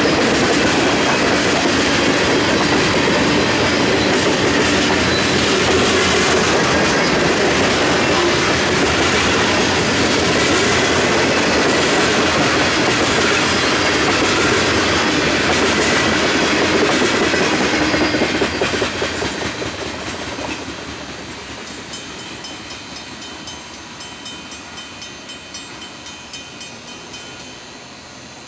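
Freight cars of a mixed Norfolk Southern train, tank cars and covered hoppers, rolling past with steel wheels clattering over the rails. The rolling noise fades away as the last car passes, about two thirds of the way through. After that a grade-crossing bell keeps ringing in even strokes, about two a second.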